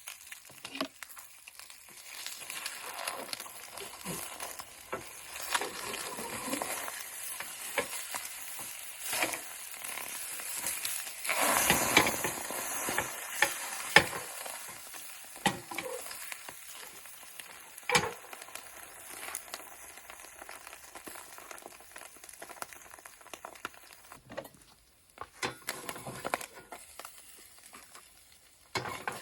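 A steady sizzling hiss with many scattered clicks and scrapes, swelling louder about halfway through, with a few sharper knocks.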